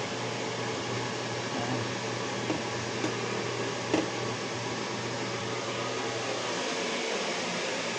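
Electric fan running steadily with a low hum, with a few light knocks about two and a half, three and four seconds in.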